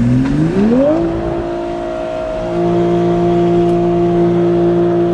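Stock automatic Toyota GR Supra's engine, heard from inside the cabin, revving up over about the first second and then held at high, steady revs. Traction control is off, and the car is being pushed into a drift.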